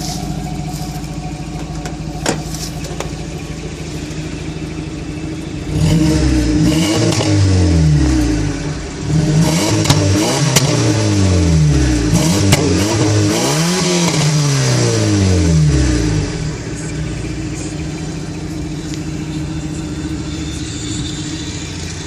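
1987 Toyota pickup's engine idling steadily, then revved again and again for about ten seconds, its pitch climbing and falling with each blip of the throttle, before settling back to idle. A single sharp click about two seconds in.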